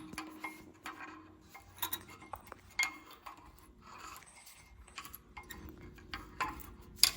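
Light metallic clicks and clinks of brake parts being handled: scattered small taps, with one sharper click near the end.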